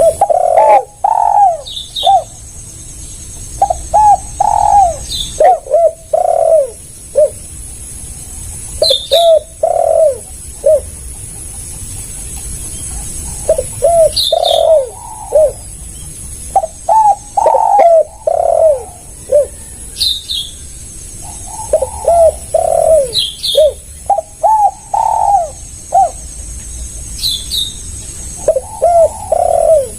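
Spotted dove (tekukur) cooing: repeated phrases of several low coo notes every few seconds, with short high chirps from another small bird in between.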